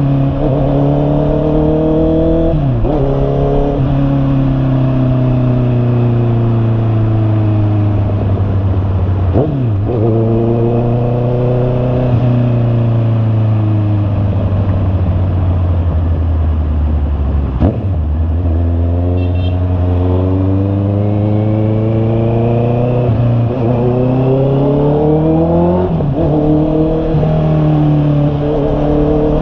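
Honda CB650R's inline-four engine riding through the gears. The pitch climbs and then drops sharply at several gear changes, and sinks slowly while the throttle is eased off.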